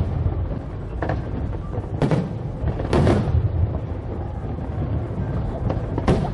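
Fireworks bursting overhead: four sharp bangs, the first three about a second apart and the last near the end, over a continuous low rumble of further explosions.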